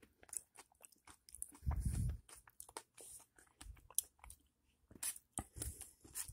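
A person chewing and biting overcooked chicken, a run of small clicks and crunches, with a brief low muffled sound about two seconds in.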